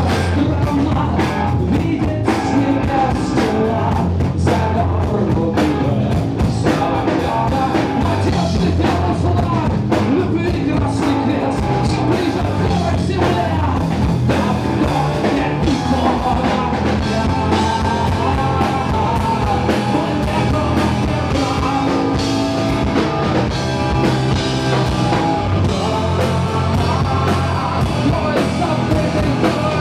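A live rock band playing a song, with drum kit and guitar and a singer's voice.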